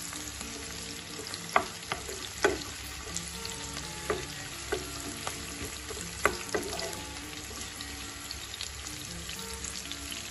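Sliced onions, green chillies, garlic and ginger sizzling in hot oil in a frying pan. A wooden spatula stirring them knocks and scrapes against the pan several times in the first few seconds, then only the steady sizzle continues.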